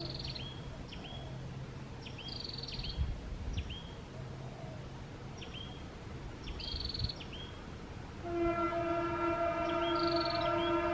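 Diesel locomotive horn of the Putri Deli train starting one long, steady blast about eight seconds in: a long horn signal. Before it there is a low steady hum and repeated short high chirps.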